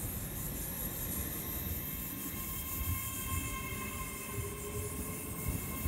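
GWR Hitachi Intercity Express train running along the platform: a steady whine of several high tones over the rumble of wheels on rail.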